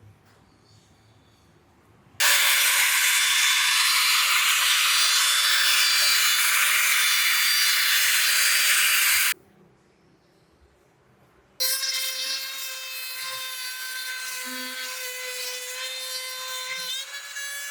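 A power tool runs for about seven seconds with a dense, loud noise and stops abruptly. After a pause of about two seconds, a power tool runs again for about six seconds with a steady whine and cuts off.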